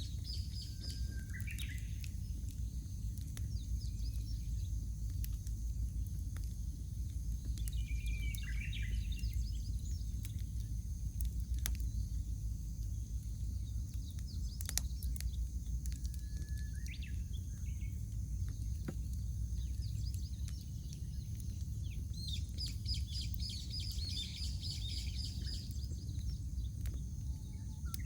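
Wood campfire crackling with scattered small pops over a low steady rumble, while small birds call now and then, with a longer chattering song near the end.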